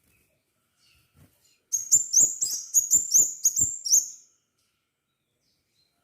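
Crimson sunbird (kolibri sepah raja) calling: a quick run of about ten sharp, high-pitched chirps lasting some two and a half seconds, starting about two seconds in.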